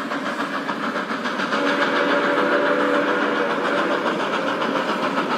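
Train running with a fast, even rhythmic chugging under a held, multi-tone whistle.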